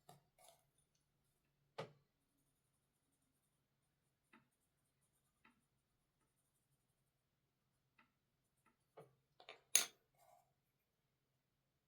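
Small objects being handled on a desk, making sparse light clicks and knocks: a single knock about two seconds in, a few soft taps, then a quick cluster of clicks near the end with one sharper click. A faint low hum runs underneath at times.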